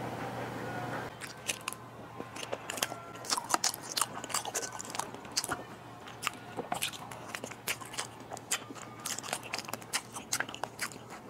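Close-miked chewing of a sticky mochi dessert layered with purple-rice cake and meat floss: many irregular small mouth clicks, starting about a second in.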